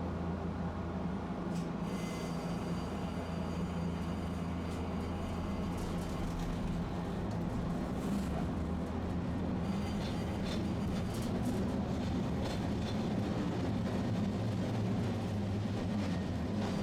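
Tosaden streetcar running: a steady rumble with a low hum and a few faint clicks and knocks.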